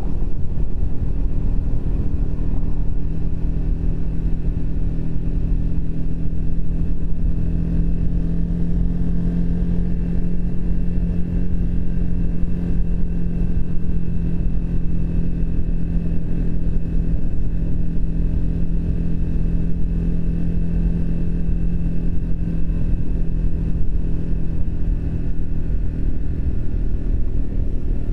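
Triumph Speed 400's single-cylinder engine running at a steady cruise, its pitch holding even throughout.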